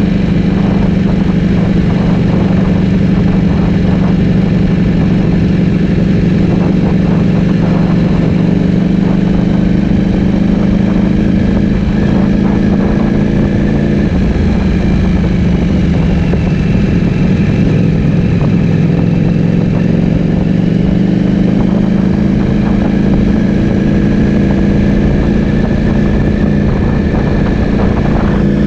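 Ducati Streetfighter V4S's V4 engine through an Akrapovic full-system exhaust, running at a steady, nearly constant pitch with only small changes.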